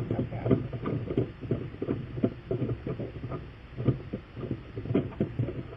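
Irregular light knocks and clicks of hands handling a spare tyre and a tyre gauge, over a low steady hum.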